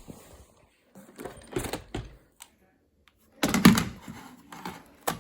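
Plastic robot-vacuum dustbins being handled: scattered clunks and rattles, with one louder clunk about three and a half seconds in.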